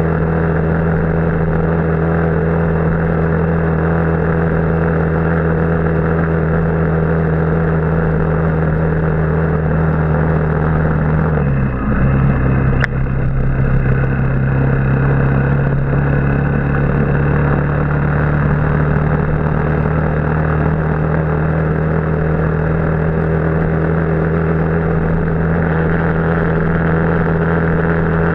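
Motorbike engine running steadily while riding. About twelve seconds in the engine note drops and then holds steady at a lower pitch, with a single sharp click just after.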